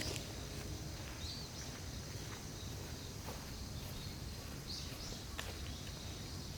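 Quiet outdoor ambience with a few short bird chirps and scattered faint clicks.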